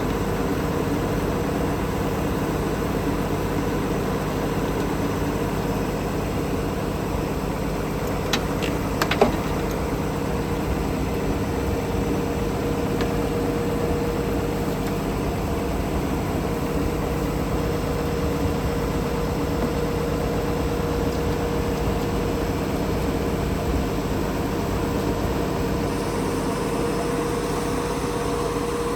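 Tractor engine running at a steady speed, an even hum with fixed tones. Two sharp clicks sound about eight and nine seconds in.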